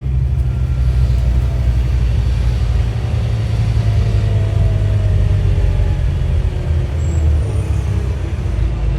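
Engine of a Scania N230UD OmniDekka double-decker bus running steadily under way: a loud, deep drone, with a faint whine above it that slides slowly down in pitch around the middle.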